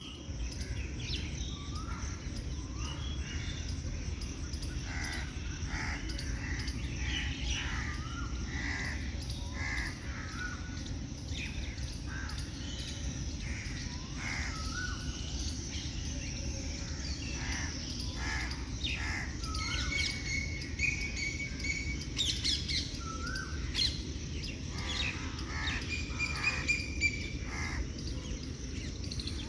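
Several birds chirping and calling in short, overlapping phrases, with a few longer whistled notes in the second half, over a steady low background noise.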